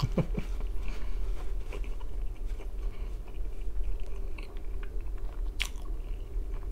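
A man chewing a mouthful of pizza close to the microphone, with wet mouth sounds and small smacks, and two sharper clicks near the end. A steady low hum runs underneath.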